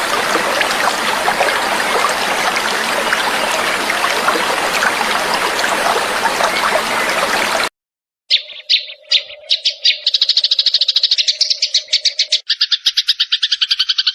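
Water trickling steadily, cut off suddenly about two-thirds of the way in. After a short silence a bird begins a very fast, buzzing trill of rapidly repeated high notes.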